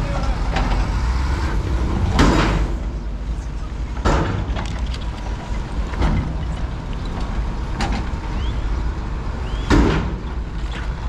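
Road traffic noise: a steady low rumble with several short, loud whooshes, about four, as vehicles pass close by.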